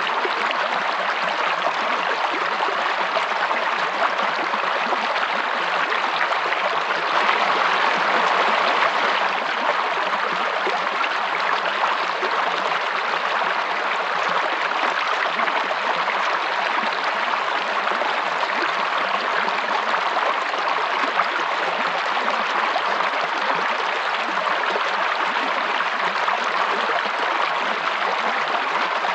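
A stream of water running and splashing steadily, as a continuous even rush with no breaks.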